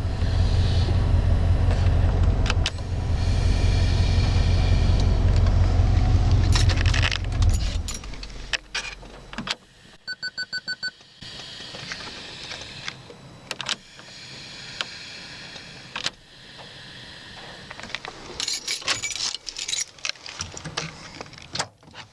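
Ford F-150 pickup engine running, then switched off about eight seconds in. A rapid run of about six warning-chime beeps follows. After that come clicks, a hiss of vacuum bleeding off through the truck's vacuum-operated controls, and keys jangling.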